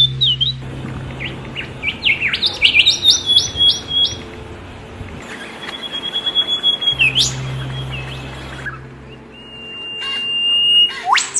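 Songbird singing: quick runs of chirps and sharp upward-sweeping notes, then long held whistles that each end in a steep pitch sweep.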